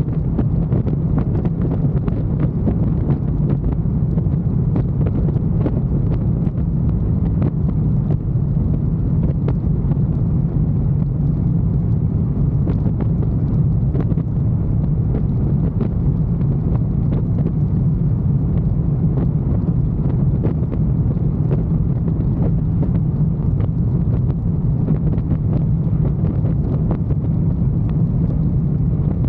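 Motorcycle riding at a steady speed: the engine runs evenly under a constant rush of wind buffeting the microphone.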